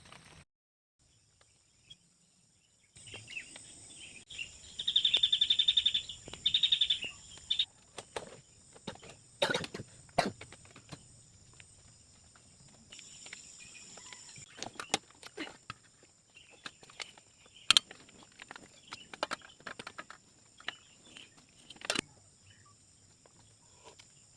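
Tropical forest at night: insects drone steadily in several high bands, and a loud rapid pulsed chirping call sounds for a few seconds near the start. Scattered sharp clicks and knocks come through, the loudest a single crack about eighteen seconds in.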